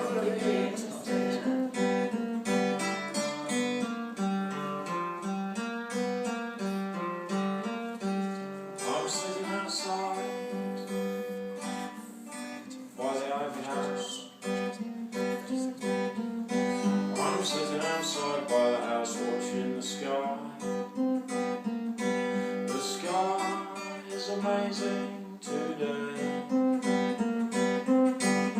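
Guitar played in a fast picked and strummed pattern of many quick notes over a steady low drone.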